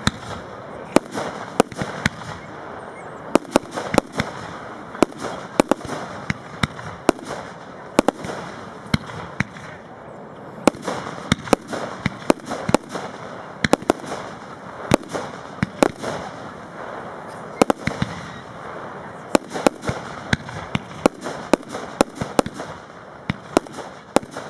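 Aerial fireworks display: a rapid, irregular string of sharp bangs and cracks from shells bursting overhead, at times several a second, over a continuous background rumble.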